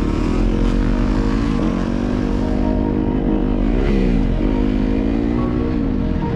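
2017 Yamaha YZ250FX's 250cc single-cylinder four-stroke engine running hard under throttle, the revs held high, then dropping sharply about four seconds in and climbing back as the throttle is shut and opened again.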